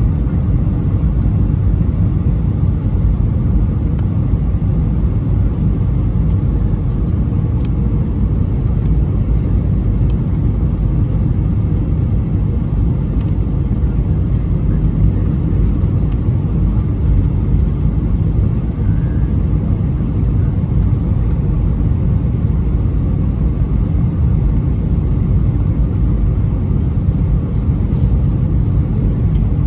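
Steady low rumble of cabin noise inside an Airbus A320-214, its CFM56 engines running without change in pitch or level.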